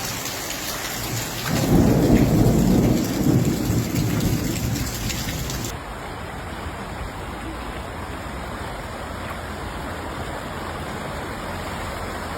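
Thunderstorm: heavy rain hissing, with a roll of thunder rumbling for about three seconds from a second and a half in. After an abrupt change about halfway through, a steady hiss of falling water continues.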